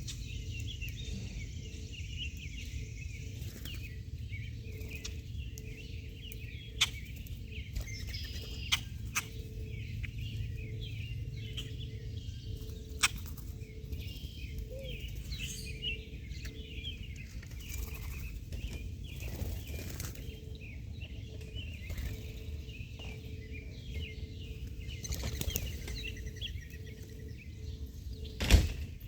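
Small birds chirping continuously in many short, overlapping calls, with scattered sharp taps and one loud knock near the end, over a faint steady hum.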